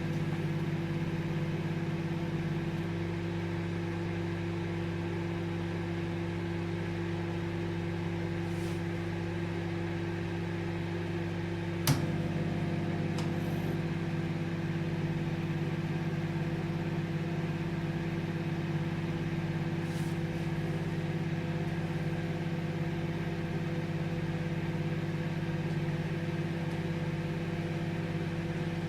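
Microwave oven running with a steady electrical hum and fan whir. A single sharp click comes a little under halfway through, after which the hum's tone shifts slightly.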